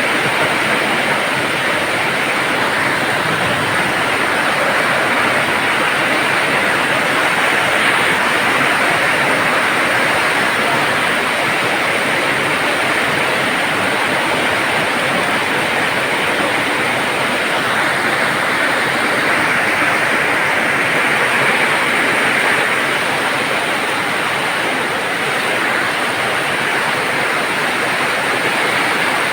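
Heavy rain pouring down in a steady, loud downpour, swelling slightly at times.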